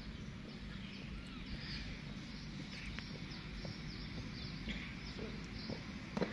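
Small birds chirping, many short falling chirps, over a low steady outdoor rumble. A couple of sharp marching footfalls come right at the end.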